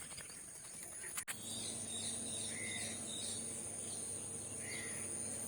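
Insects chirring in a steady, high-pitched drone, with a few short bird chirps over it and a brief click about a second in.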